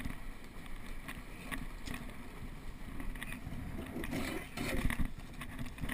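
Onboard noise of a small catboat under sail: a steady low rush of wind and water, with scattered light knocks and a louder surge about four seconds in.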